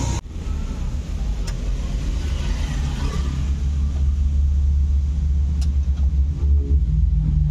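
Low, steady rumble of a car engine idling, heard inside the car's cabin, with a couple of faint clicks.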